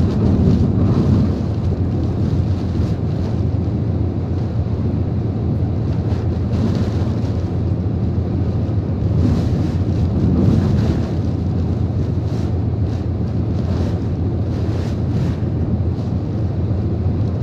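Strong typhoon wind buffeting the microphone: a steady, loud, deep rumble of wind noise with short gusts scattered through it.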